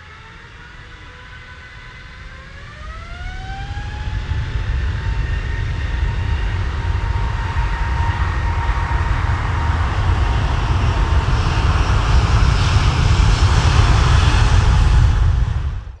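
Rolls-Royce Trent XWB turbofans of an Airbus A350-900 spooling up to takeoff power. Their whine rises in pitch about two to three seconds in, then a loud deep rumble builds, strongest near the end, and stops suddenly.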